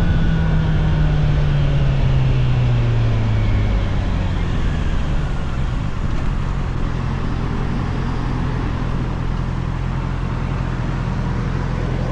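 Honda CBR650R's inline-four engine slowing down. Its note falls over the first four seconds or so, then holds steady at lower revs, with wind and road noise throughout.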